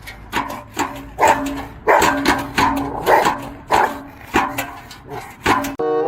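A dog barking over and over, about two sharp barks a second.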